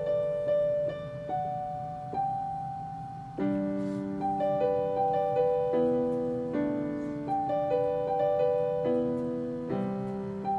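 Piano playing an arpeggiated accompaniment: repeated broken-chord notes over held low chords, which change about three and a half seconds in and again near the end.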